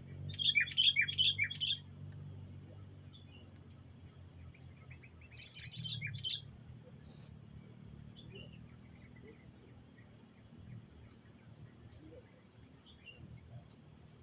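Sooty-headed bulbul chirping: a quick run of bubbly notes starting about half a second in, another run around six seconds, and scattered softer calls between them.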